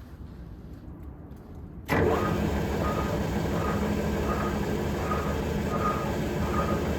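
Mazak Jr engine lathe switched on about two seconds in, then running steadily. A faint whine rises and falls about every 0.7 seconds over a low hum.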